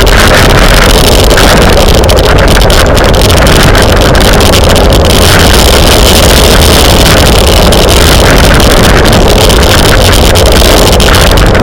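Loud, steady wind rush over a bike-mounted camera's microphone at racing speed, pushing the recording close to overload.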